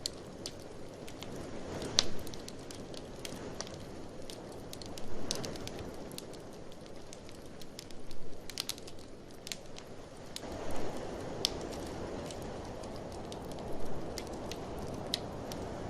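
Wood fire crackling, with sharp pops every second or so, over a steady rush of blizzard wind that swells a little about two-thirds of the way through.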